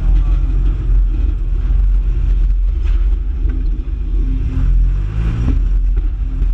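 Mini figure-8 race car engine running, heard from inside the cockpit as a heavy low rumble; the revs climb briefly about four to five seconds in, then drop back.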